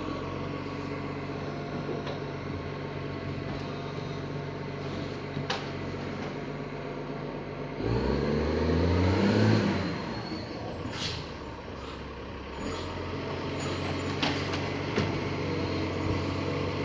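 Garbage truck's diesel engine running steadily, then revving up for about two seconds about eight seconds in before settling back, with a few short knocks along the way.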